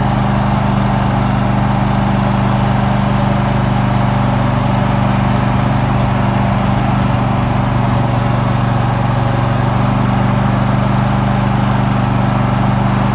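Riding lawn mower engine running steadily at a constant speed while the mower is driven along.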